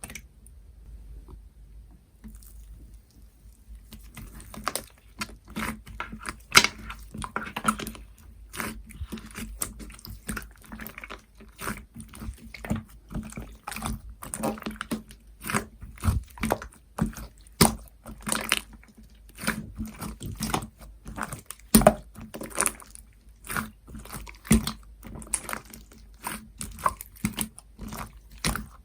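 Hands pressing, poking and stretching a soft cream slime, making a dense, irregular run of wet clicks and pops that starts about four seconds in.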